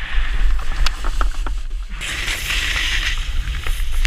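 Snowboard sliding over snow, with a steady hiss that gets louder about halfway through as the board scrapes harder, a few sharp clicks, and wind rumbling on the microphone.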